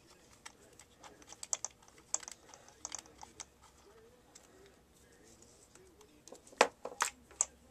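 Small clicks and taps of an old Wahl hair clipper being taken apart by hand, its parts handled and set down, with three sharper knocks near the end.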